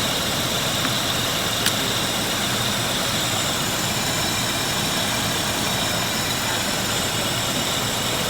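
Car engine idling steadily, running again after water was cleared from the fuel and a clogged injector cleaned. A single sharp click sounds about two seconds in.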